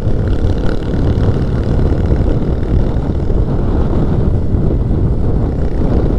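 Motorcycle riding along at a steady speed: the engine running under a heavy, even rumble of wind buffeting the rider's microphone.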